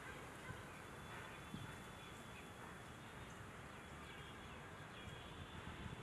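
Faint, scattered short bird calls over a steady background hiss.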